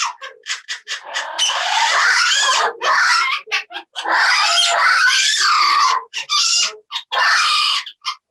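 Parrot squawking loudly: a few short squawks, then long harsh screeches of a second or two each.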